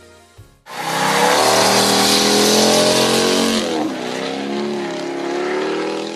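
Twin-turbo V8 Nissan drift car at high revs with loud tyre squeal, cutting in suddenly under a second in. The revs dip about four seconds in and then climb again.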